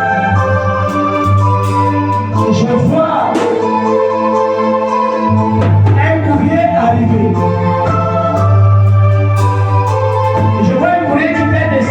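Electronic organ playing slow sustained chords over a held bass note, the chords changing every second or two.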